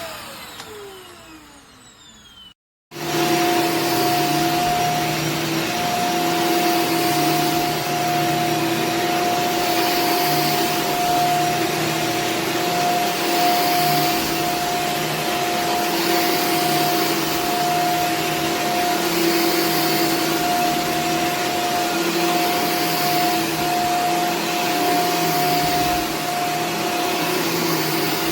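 Shark Stratos upright vacuum cleaner: its motor whine falls in pitch and fades as it spins down over the first two seconds. After a short break, the vacuum runs steadily with a high, even whine over a rushing hiss.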